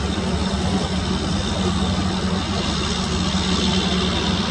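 Steady rumble of a moving passenger train heard from one of its coaches: wheels running on the rails, with the constant low drone of the EMD diesel locomotive hauling it.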